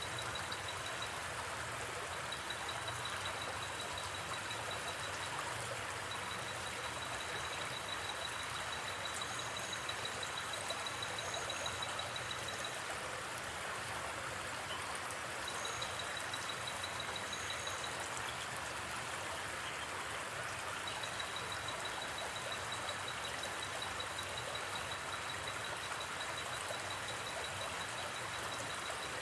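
Steady rush of a gently flowing river, with a high pulsing trill that runs for long stretches and breaks off now and then, and a few brief, higher double chirps near the middle.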